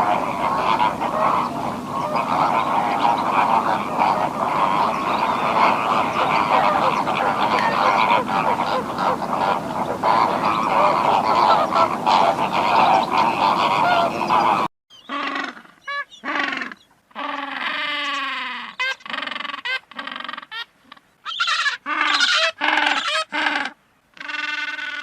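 A large flock of birds calling together in a dense, continuous chorus. After a sudden cut about 15 seconds in, separate loud calls follow one after another, many of them falling in pitch.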